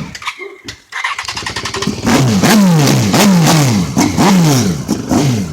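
Motorcycle engine being revved in a rapid run of throttle blips, each rev jumping up and falling away, about one to two a second, after a quieter, rattly start.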